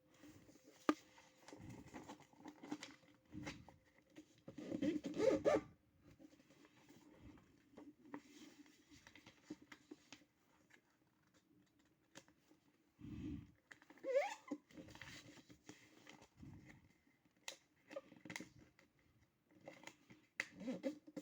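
Paper rustling and being creased by hand while folding a paper boat, in irregular bursts with the loudest handling about five seconds in and again past the middle.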